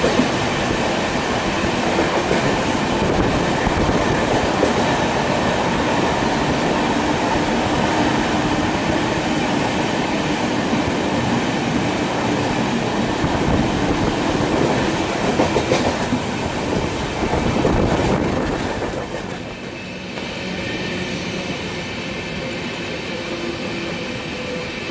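Running noise of an express passenger train at speed, heard from an open coach door: steel wheels rolling on the rails, loud and steady. The noise drops about twenty seconds in.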